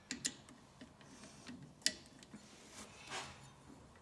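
Faint clicks and taps of a socket wrench being handled and fitted onto the next crankcase nut of a VW air-cooled engine, with one sharper metallic click nearly two seconds in.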